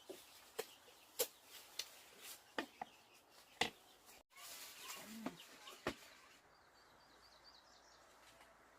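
A run of sharp, irregular knocks and clicks, then faint quick bird chirps near the end.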